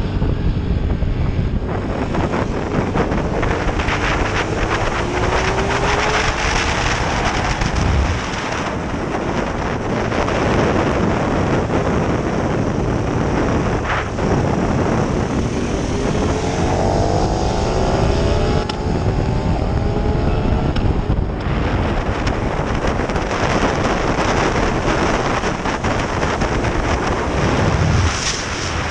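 KTM 1290 Super Duke R's V-twin engine accelerating hard, its pitch rising again and again as it climbs through the gears, under heavy wind noise on the microphone.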